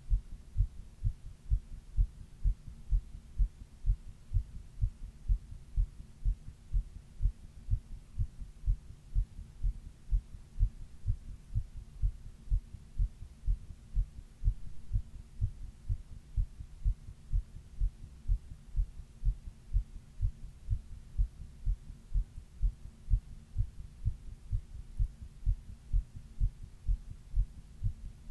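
A person's heartbeat: low heart sounds repeating in a steady, even rhythm, with a faint hum beneath. It was recorded while she had a 102-degree fever.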